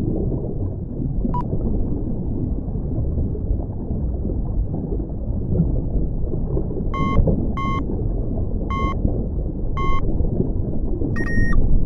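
A steady low rumbling drone, with a brief high beep about a second in, four short electronic-sounding beeps over about three seconds from about seven seconds in, and one slightly longer beep of another pitch near the end.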